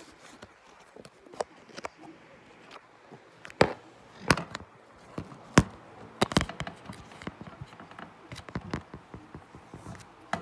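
Scattered taps and knocks, with a few louder sharp hits clustered in the middle.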